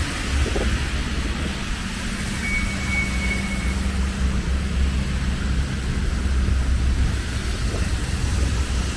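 Steady low rumble of road traffic with a constant hiss over it, and a brief thin high tone about two and a half seconds in.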